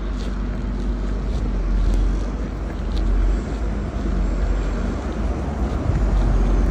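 Blizzard wind buffeting the microphone: a loud, steady rushing noise with a heavy low rumble.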